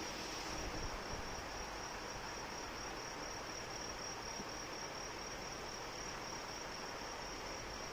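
Insects trilling steadily in one high, finely pulsing note, over an even hiss of steady rain.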